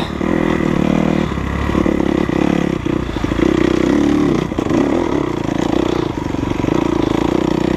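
Off-road dirt bike engine running under changing throttle, its revs rising and falling with several brief dips, mixed with knocks and rattles.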